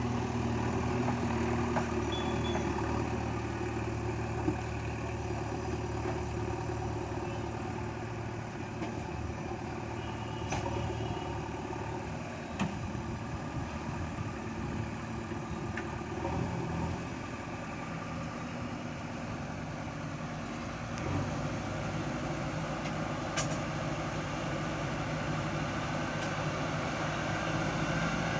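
Heavy diesel engine running steadily, its note shifting slightly a few times, with a few sharp clicks or knocks.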